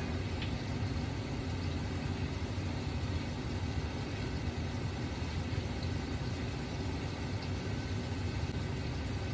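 Steady low hum from a running kitchen fan, even and unchanging throughout.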